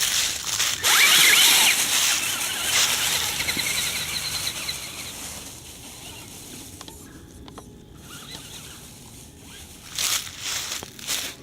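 Radio-controlled 4x4 truck driving over sticks and leaf litter, its electric motor giving short rising and falling whines in the first few seconds. A run of short crunches and crackles follows near the end.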